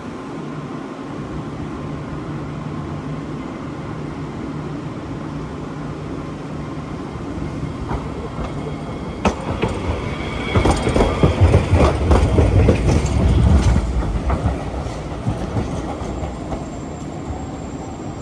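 Alna Sharyo 7500-series low-floor tram pulling away from a stop: a steady low hum, then wheels clacking over the rail and a rumble that grows loudest as it passes about halfway through, with a short high squeal, before easing off again.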